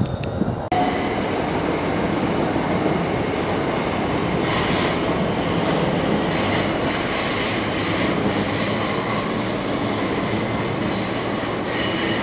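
Passenger train running past close by, a steady rumble of wheels on rail, with high-pitched wheel squeal coming and going from about four seconds in.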